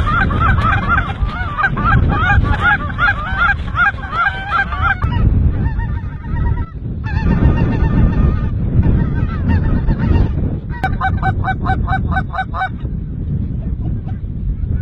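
Geese calling: many rapid, repeated honks in several bursts, over a steady low wind rumble.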